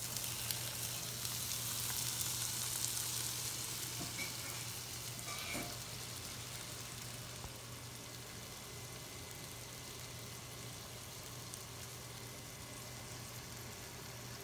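Razor clams tipped into a hot saucepan of sautéed onions, sizzling at once. The sizzle is loudest in the first few seconds, then settles into a steady, quieter frying sizzle.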